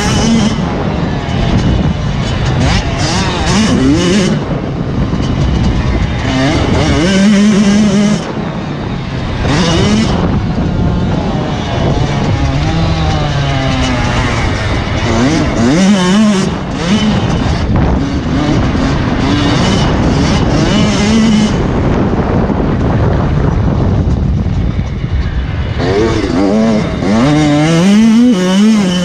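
Motocross bike engines revving up and dropping off again and again, with more than one bike heard at once at times, as the bikes accelerate and shift.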